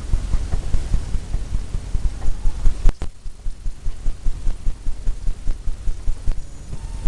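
Paintbrush dabbing and working oil paint, a steady run of soft low thumps several a second, with a single sharp click about three seconds in.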